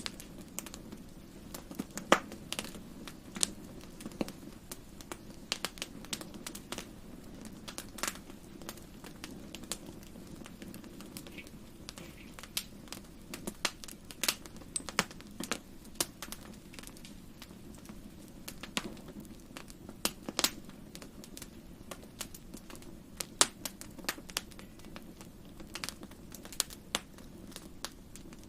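Wood fire crackling in a fireplace: irregular sharp pops and snaps, a few of them loud, over a low steady rumble.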